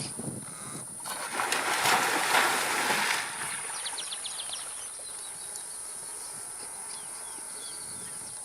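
Outdoor natural sounds: a splashing rush of water for about two seconds, then a short run of quick bird chirps, over a steady high hiss.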